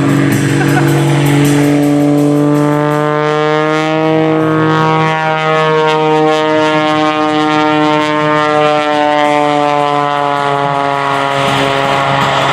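Pitts S-1-11B aerobatic biplane's Lycoming engine and propeller screaming through a manoeuvre. Its pitch rises over the first four or five seconds and then sinks slowly.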